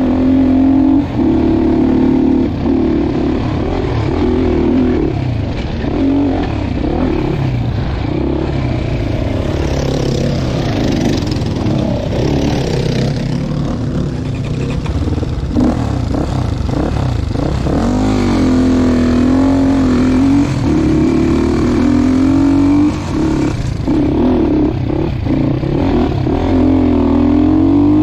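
Dirt bike engine running under constantly changing throttle on a rough trail, its revs rising and falling over and over, with a few brief drops where the throttle is chopped.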